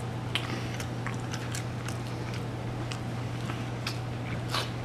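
Close-up chewing and crunching of a battered, deep-fried chicken of the woods mushroom piece: scattered crisp clicks, a little louder near the end, over a steady low hum.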